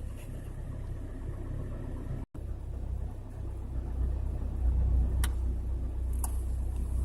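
Chevrolet Niva (2018) four-cylinder petrol engine running cold, with the cold-engine knock the owner is recording. A steady low drone, a brief cut about two seconds in, then louder, with a couple of sharp clicks near the end.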